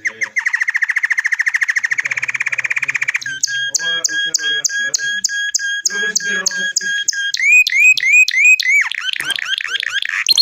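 A songbird singing in a series of set phrases: a fast trill for about three seconds, then a run of evenly repeated clear notes about three a second, then quicker rising-and-falling chirps near the end.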